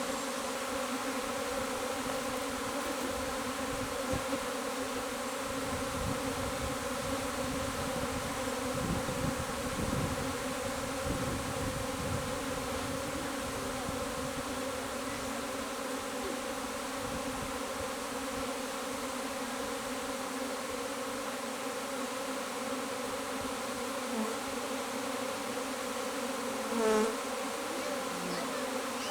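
A swarm of honey bees buzzing, a steady dense hum of many wings. Near the end a short, louder, wavering pitched sound cuts in briefly.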